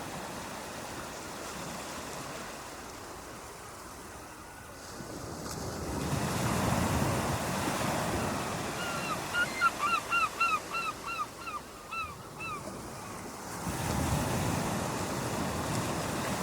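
Ocean waves breaking and washing up a beach, swelling about six seconds in and again near the end. Midway, a bird calls a quick run of about ten short, repeated notes, roughly three a second.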